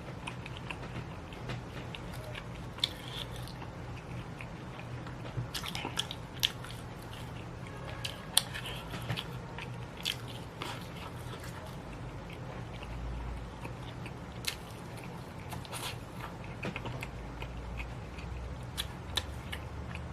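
A person chewing and biting into crunchy fried food, with irregular sharp crunches scattered throughout.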